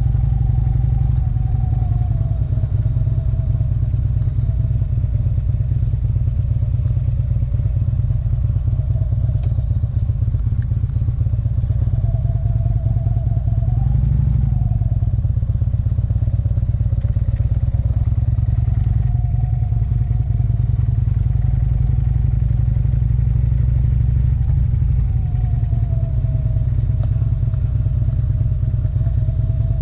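Motorcycle engine running under way, its pitch rising and falling gently several times as the bike speeds up and slows down, over a heavy low rumble.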